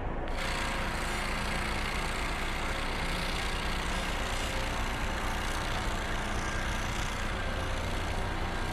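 A heavy vehicle's engine running steadily under a constant hiss.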